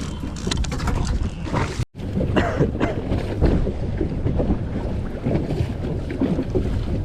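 Wind buffeting the microphone over water sloshing and slapping around a small inflatable boat at sea. The sound cuts out for an instant about two seconds in.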